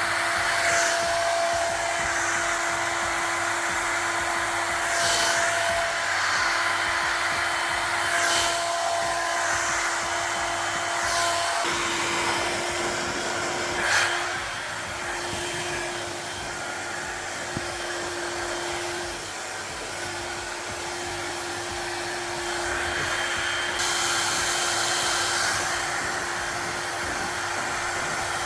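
Feekaa ionic hair dryer with its high-speed DC motor and diffuser attachment, running continuously: a rush of air over a steady motor whine, swelling and easing as it is moved through the hair. About twelve seconds in the whine changes and the dryer gets a little quieter.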